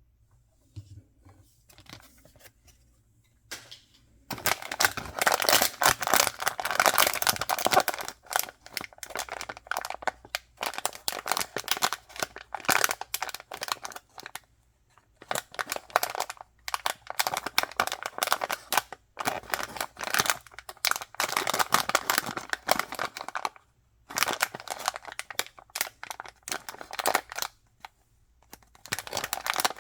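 Toy packaging being crinkled and torn open by hand: crackling runs of a few seconds with short pauses between them, starting about four seconds in after a few faint handling sounds.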